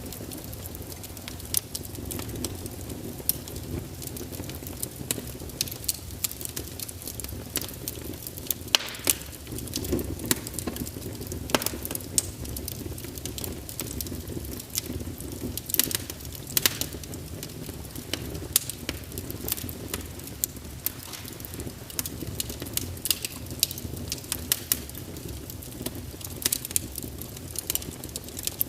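Wood fire burning in a fireplace: a steady low rumble of flames with frequent irregular crackles and sharp pops of the burning logs.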